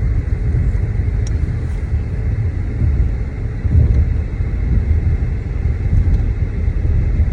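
Steady low road rumble of a moving car, heard from inside.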